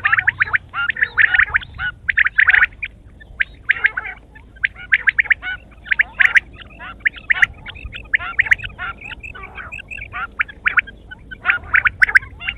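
Quail calling: rapid runs of short, high notes, grouped in clusters with brief pauses between them.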